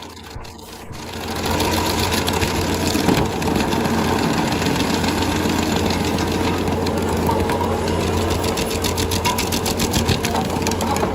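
Stump grinder running and cutting: a steady engine drone under a fast, even rattling chatter from the grinding wheel. It builds up about a second in and then holds steady.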